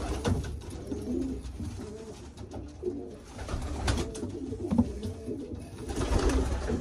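Racing pigeons cooing in a loft, several birds' low, rolling coos overlapping throughout, with a few short knocks and rustles from the birds moving.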